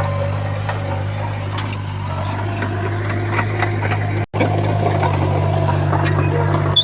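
Heavy construction machine's diesel engine running steadily at a low, even pitch, with light metallic clanks over it. The sound drops out for an instant about four seconds in.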